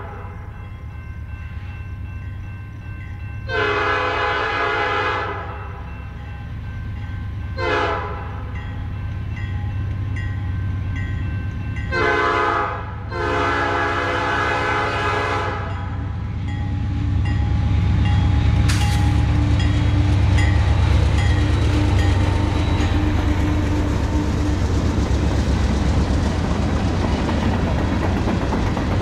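Diesel freight locomotive's air horn sounding the grade-crossing signal: a long blast, a short blast, then a final long blast held for a few seconds. Then the locomotives and freight cars roll past with a steady, louder rumble of wheels on rail.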